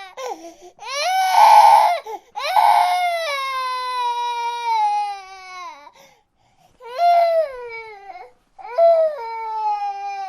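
Baby crying in a series of wails. The first wail is the loudest. The second is long and slides down in pitch. After a short pause come two shorter cries.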